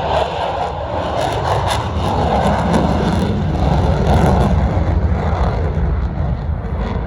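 Loud, steady jet noise from an F-35C Lightning II's single F135 turbofan engine in flight, a deep rumble that swells slightly about four seconds in.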